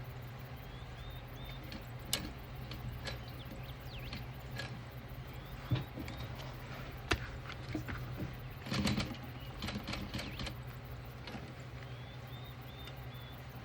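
Scattered clicks and taps of fabric and sewing clips being handled, a cluster of them about nine seconds in, over a steady low hum. Birds chirp briefly in the background about a second in and again near the end.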